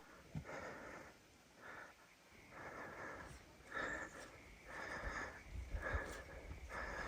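Soft, rhythmic breathing, a breath about every second.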